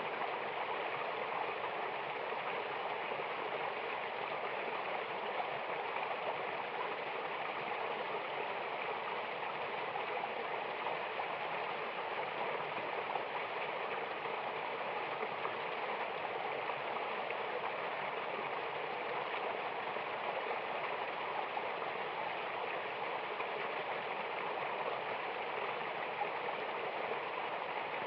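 Rushing water of a mountain waterfall, a steady even flow that does not change.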